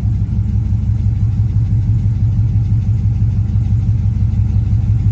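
Dodge SRT8's 392 Hemi V8 running with a steady low rumble and a pulsing beat, misfiring and shaking. The owner suspects the lifters or heads, with spark plugs fouling out.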